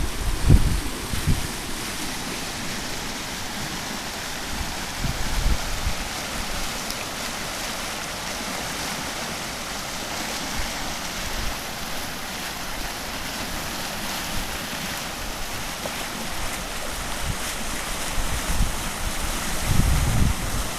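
Floodwater of the Calapooia River rushing steadily, with gusts of wind buffeting the microphone about a second in and again near the end.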